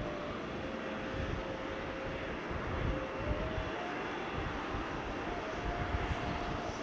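Jet airliner taking off, its engines giving a steady rumble with a thin whining tone that shifts slightly in pitch.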